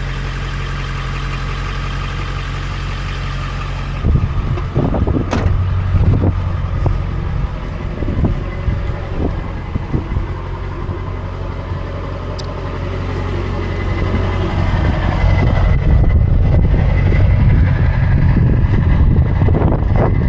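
Truck engine idling. It is a steady low hum for about four seconds, then turns into a rougher, uneven rumble with scattered knocks, which gets louder again near the end.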